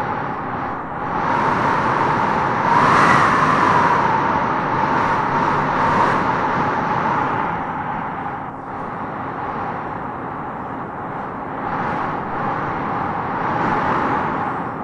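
Wind blowing in gusts, with a howling whistle that rises in pitch as a gust swells about three seconds in, then eases and swells again near the end.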